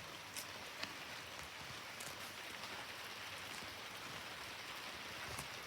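Steady rain falling, with a few faint ticks of single drops; no thunder.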